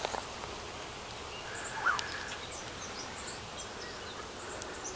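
A colony of Italian honeybees buzzing steadily around the hive, with a brief click about two seconds in.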